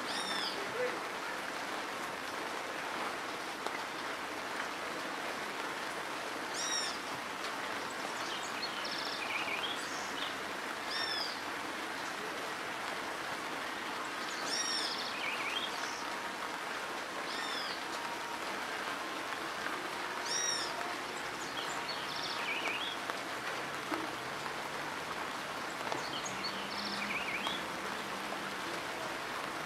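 Steady rain falling on a dirt road and puddles, an even hiss. A bird calls over it every few seconds with short, high arched chirps.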